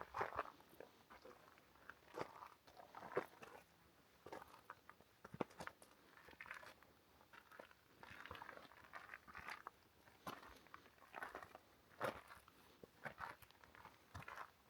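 Footsteps crunching on a forest trail, a slow walking pace of roughly one step a second.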